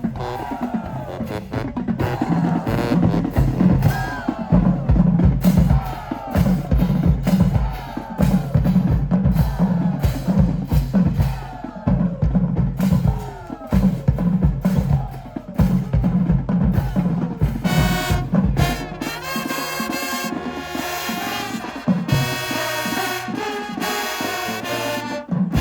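High school marching band playing: a heavy, driving drum and bass-drum rhythm with sliding pitches over it. About eighteen and a half seconds in, the beat drops back and the band moves into held, full brass chords.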